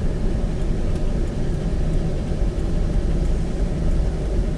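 Steady low rumble of road and engine noise inside the cabin of an SUV on the move.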